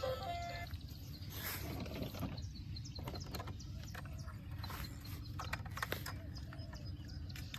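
Scattered light clicks and taps over a steady low rumble, after a short tail of music in the first half second.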